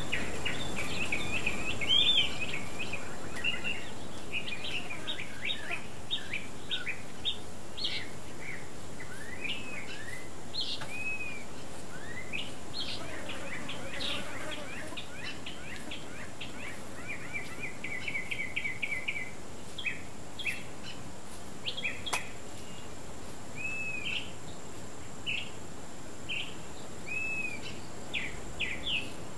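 Wild birds chirping and calling: many short chirps and upslurred whistled notes, with a rapid trill a little past halfway. A faint steady high-pitched tone runs underneath, and there is a single sharp click about two-thirds of the way through.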